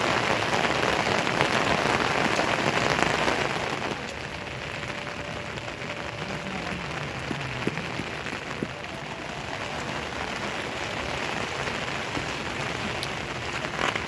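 Steady rain falling, heavier for about the first four seconds, then softer and even.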